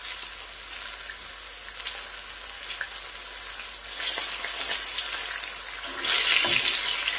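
Egg-washed pieces of stingray frying in hot beef dripping in a pan: a steady sizzle with crackles. It grows louder about four seconds in and again near the end, as more pieces are laid into the fat with tongs.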